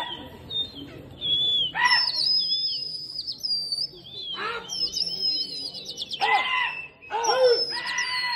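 Birds chirping and calling: a run of high, thin chirps and gliding notes, with louder rising-and-falling calls about two, four and a half, six and seven seconds in.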